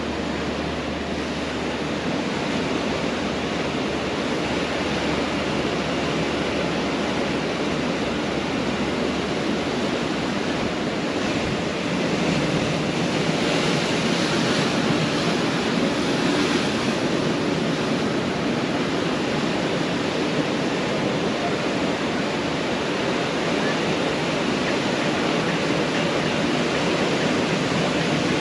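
Pacific Ocean surf washing onto a beach, a steady rushing noise that swells slightly about halfway through.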